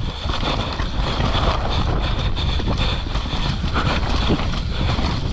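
Wind buffeting a helmet-mounted action camera's microphone as a mountain bike rolls down a dirt trail, with tyre noise and irregular knocks from the bike over the ground.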